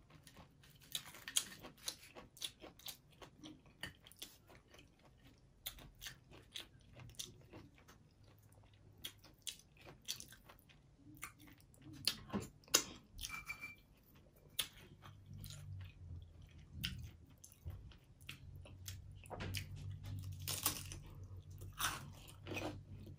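Close-miked eating: a person chewing and crunching mouthfuls of taco salad with crisp broken taco shell pieces, in many small irregular crunches.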